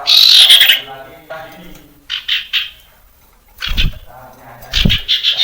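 Common iora singing: a series of harsh, buzzy chattering phrases, the loudest at the start, with short pauses between them. Two brief low thumps come in the second half.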